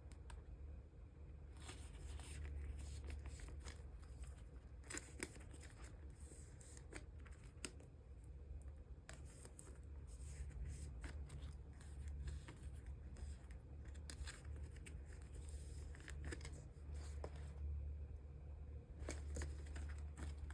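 Plastic photocard sleeves and binder sleeves being handled: crinkly rustling and light clicks as cards are slid into sleeves, in stretches with short pauses. A steady low hum runs underneath.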